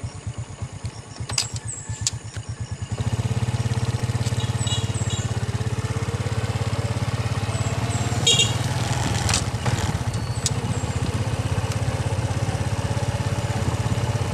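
Small motorcycle engine running while riding, with slow separate pulses at first; about three seconds in it gets louder and runs steadily. A few brief clicks and short high chirps sound over it.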